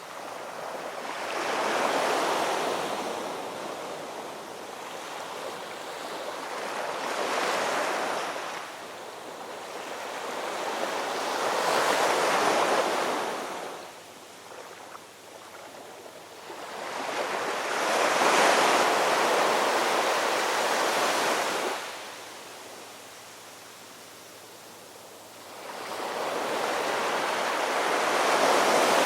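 Ocean surf: waves breaking and washing in, the hiss swelling and falling away about five times, with quieter lulls between the waves.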